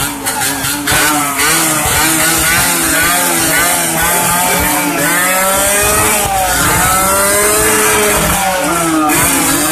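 Yamaha RX-King two-stroke single-cylinder motorcycle engine revving hard while ridden, its pitch climbing and dropping again and again as it runs up through the revs and shifts.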